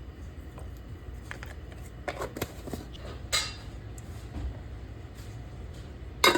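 Kitchen handling sounds while cooking: a few scattered clicks and knocks of cookware and utensils, the sharpest one near the end, over a low steady hum.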